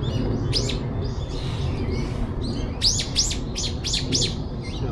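A songbird calling: one sharp shrill call near the start, then a quick run of about five similar calls in the second half.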